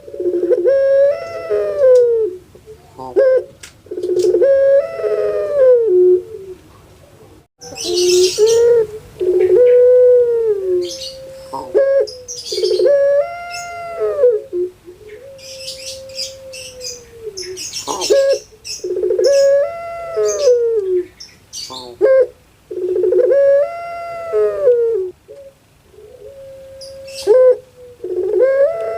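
Puter pelung dove (Streptopelia risoria) cooing over and over, each drawn-out, bending coo lasting a second or two and coming about every three to four seconds. Short, high chirps from other birds break in a few times.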